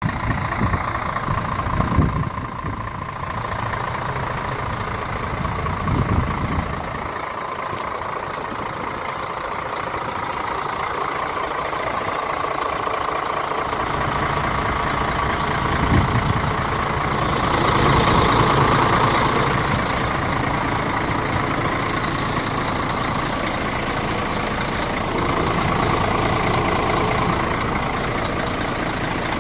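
Mercedes-Benz Axor 1840 truck's six-cylinder diesel engine idling steadily, with a few brief knocks along the way.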